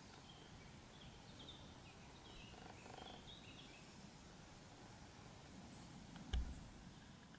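Faint birdsong in the background, short chirps, with one low thump a little over six seconds in.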